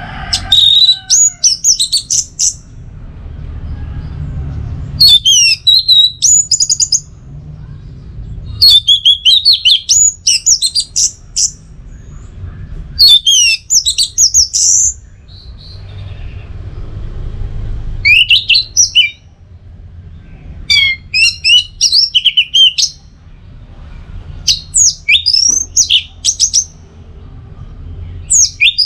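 Orange-headed thrush (anis merah) singing: about eight short phrases of rapid, high whistled and twittering notes, each a second or two long, with pauses between them. A low rumble fills the gaps.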